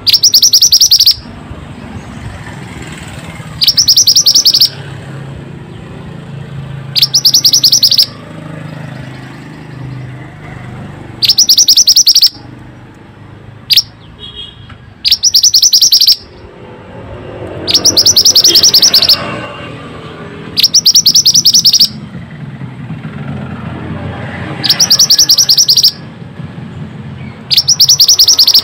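Mantenan songbird giving loud, fast, high-pitched trilled chirps in bursts of about a second, repeated every three to four seconds. This is a lure call meant to set a silent caged mantenan singing.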